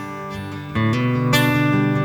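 Acoustic guitar strumming chords, the Yamaha's piezo pickup signal run through an acoustic-guitar impulse response on an HX Stomp XL. One chord dies away, then a fresh strum comes about three quarters of a second in and another about half a second later.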